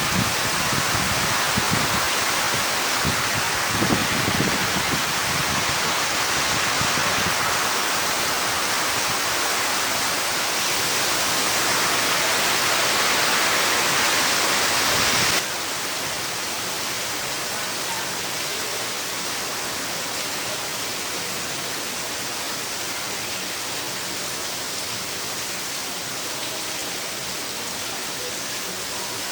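Heavy rain pouring steadily in a windstorm, with low gusts of wind in the first few seconds. The level drops suddenly about halfway through, and the rain then goes on more softly.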